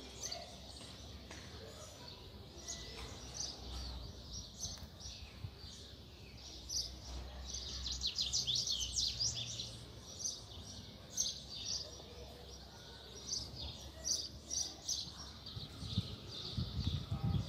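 Small birds chirping and twittering on and off, with a faster run of song about eight seconds in, over a low background rumble.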